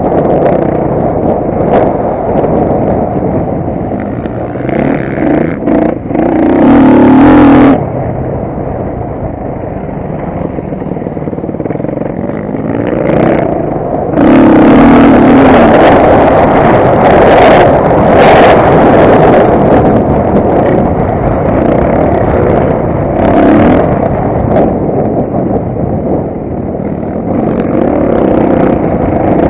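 Motocross bike engine running hard, with the throttle opened to loud revving surges about seven seconds in and again for several seconds from about fourteen seconds.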